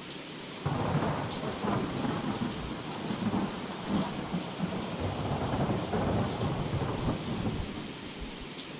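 Heavy rain falling with a steady hiss. A thunder rumble breaks in sharply about a second in, rolls on in uneven surges for several seconds and dies away near the end.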